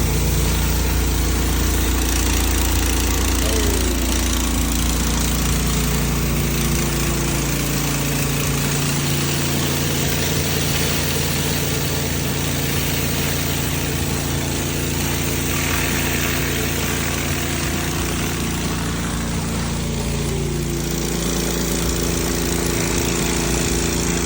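Gas-engine pressure washer running steadily, its spray hissing.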